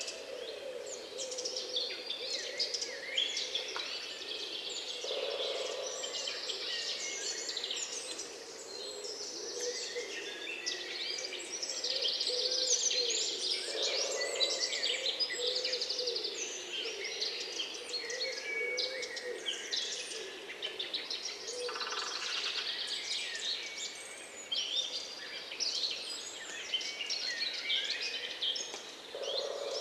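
Many wild birds singing and chirping at once, a dense, overlapping chorus of short high calls, with lower wavering calls running underneath.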